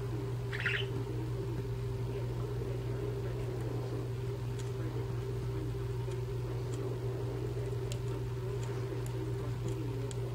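A steady low hum, with one short budgie chirp less than a second in and a few faint light clicks.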